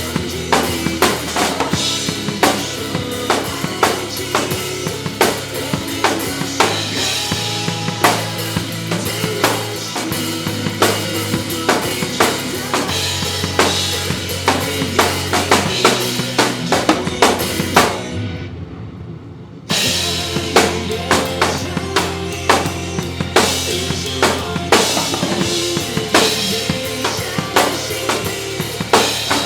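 Acoustic drum kit played live over a pop-song backing track, with bass drum, snare and cymbal hits on a steady beat. About two thirds of the way in the music drops away for under two seconds, then comes back in at full level.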